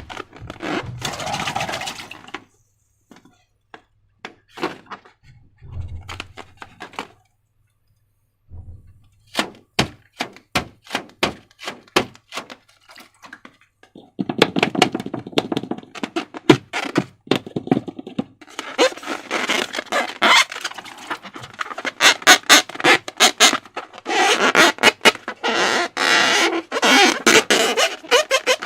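Hands working slime and rubber balloons, giving sticky, wet squishing with many sharp clicks and crackles. It comes in spurts with short silent pauses, and the squishing gets denser and steadier in the second half.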